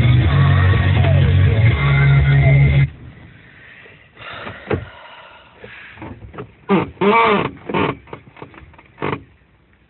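Radio playing a song with guitar that cuts off abruptly about three seconds in, followed by quieter scattered short sounds that bend up and down in pitch, like brief vocal noises.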